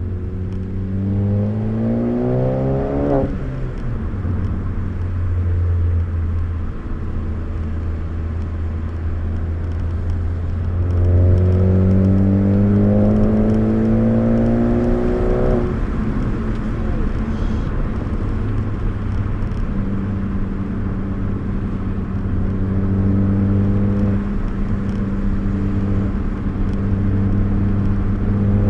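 Four-cylinder car engine heard from inside the cabin, revving up under hard acceleration and dropping suddenly at a gear change, about three seconds in and again around fifteen seconds in. In between and afterwards it runs steadier at lower revs under a constant road hum.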